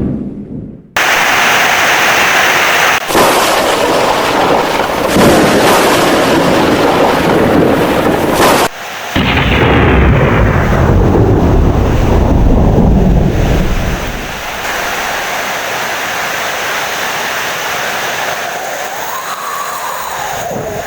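Heavy rain with loud, deep rumbling thunder that cuts in abruptly about a second in and again about nine seconds in. After about fourteen seconds it settles into steadier, quieter rain.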